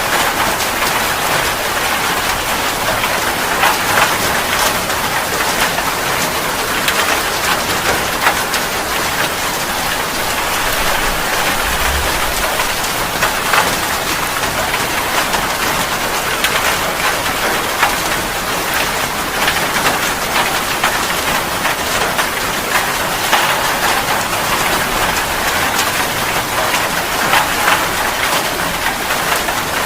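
Steady rain falling on a surface, a constant hiss with many small, sharp drop hits scattered through it.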